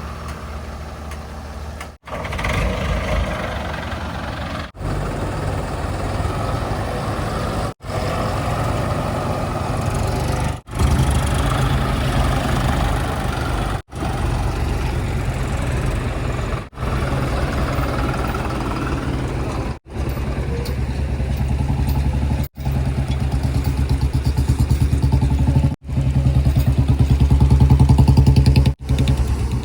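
Heavy diesel engines running, with some rises in revs, cut into short pieces by abrupt breaks about every three seconds.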